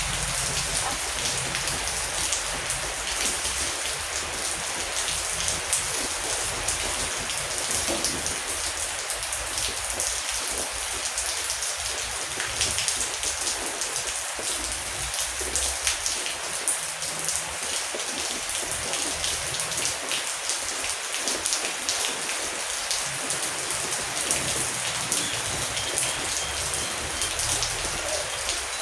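Heavy rain falling steadily, with many separate drops pattering on a surface.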